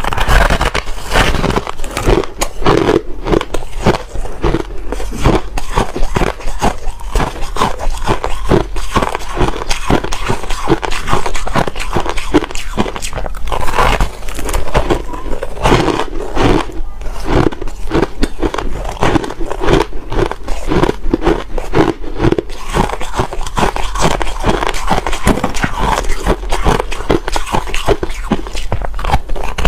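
Ice being bitten and chewed close to the microphone: a continuous dense run of crunching and cracking.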